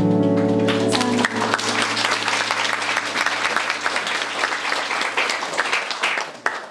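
The band's last held chord rings for about the first second, then the audience applauds and claps; the applause thins out near the end.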